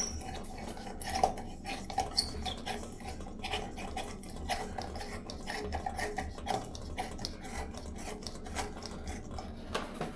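Light bulbs being screwed into a ceiling fan's light-kit sockets: a run of small, irregular clicks and scrapes of glass against metal, over a low steady hum.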